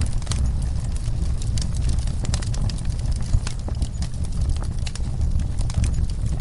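Wood fire burning in a fireplace: many irregular crackles and pops over a steady low rumble.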